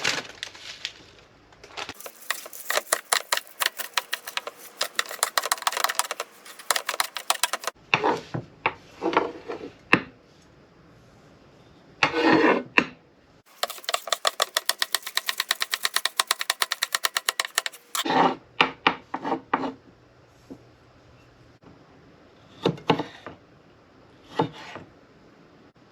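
Two runs of rapid clicking, each several seconds long, with scattered knocks and clatters between them.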